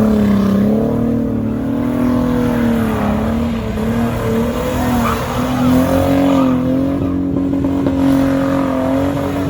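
Car engine held at high revs, its pitch wavering and slowly creeping higher.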